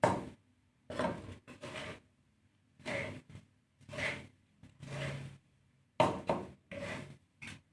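Dry bird seed (a mix of millet, foxtail millet and black glutinous rice) being stirred and scraped with a spatula in a pan while it roasts, in short scraping strokes about once a second, sometimes two in quick succession.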